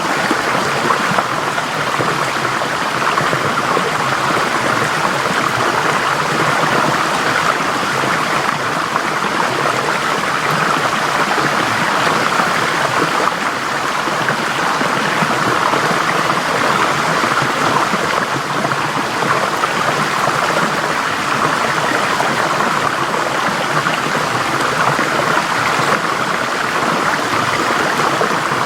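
Forest stream flowing over rocks, a steady rushing and babbling of water.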